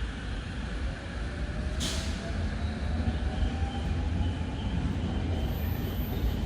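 A 15-car Sobu Rapid Line electric train pulling in along the platform: steady rumble growing slowly louder, with a faint rising electric motor whine and a brief sharp hiss about two seconds in.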